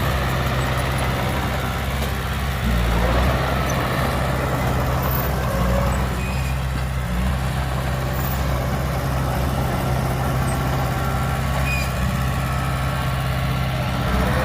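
Heavy diesel engines of earthmoving machinery running steadily with a low drone. The level steps up for a moment about three seconds in.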